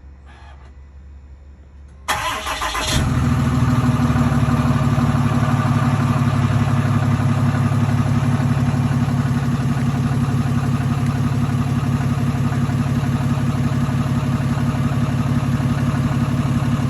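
Truck engine cold-started on a brand-new exhaust: the starter cranks for about a second, the engine catches about three seconds in, and it settles into a steady idle.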